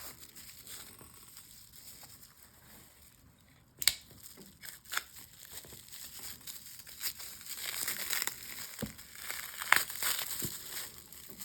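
Wrapping crinkling and tearing as stone slabs are unwrapped by hand, with a few sharp clicks, one about four seconds in and another near ten seconds.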